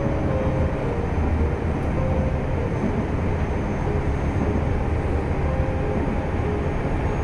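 Electric train running at speed, heard from inside the car: a steady rumble of wheels on rail with a low hum underneath.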